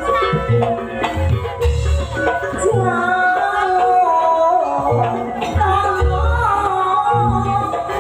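Live Banyuwangi jaranan music: a voice sings a winding melody over an ensemble with deep drum strokes about once a second.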